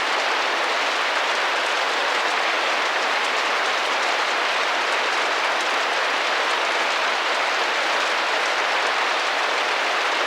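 Steady rain drumming gently against a window pane: an even hiss of many drops at a constant level.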